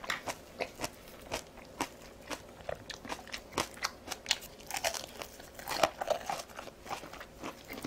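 Close-miked crunching and chewing of crisp batter-fried food, a bite of deep-fried shrimp, in many quick, irregular crackly bites.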